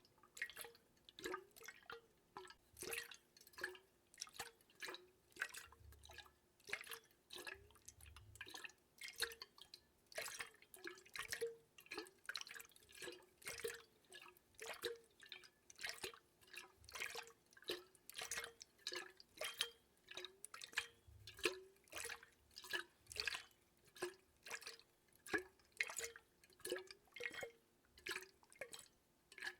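Water dripping into water: soft, unevenly spaced plinks at about three drops a second.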